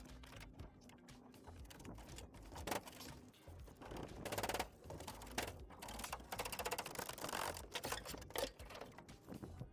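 Rapid, irregular clicking and tapping, with denser rattling stretches about four and seven seconds in.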